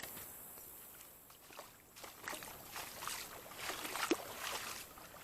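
Wading through creek water: irregular sloshing and splashing as the legs push through it.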